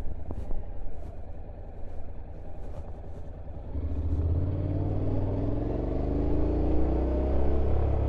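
Honda NC750X DCT motorcycle's parallel-twin engine running low and pulsing. About four seconds in, it picks up and its pitch climbs steadily as the bike accelerates.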